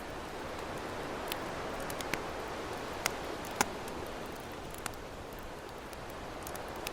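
Campfire crackling, with irregular sharp pops about every second or so, over a steady wash of ocean waves that swells and eases slowly.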